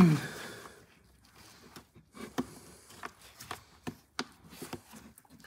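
Scattered light clicks and taps of plastic engine-cover parts being handled and pushed into place under the hood.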